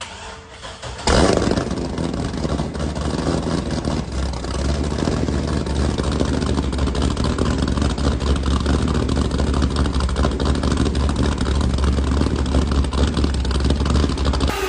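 An engine cold start: a brief crank, then the engine catches about a second in and runs at a steady, loud idle.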